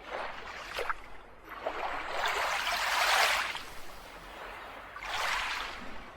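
Small waves washing onto a beach: three swells of surf, the middle one the longest and loudest, each rising and then fading away.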